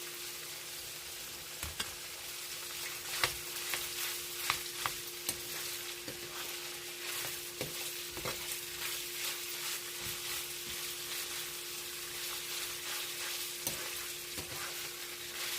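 Pork pieces sizzling steadily in hot oil in a frying pan as they brown, with sharp clicks of a utensil stirring against the pan, mostly in the first half.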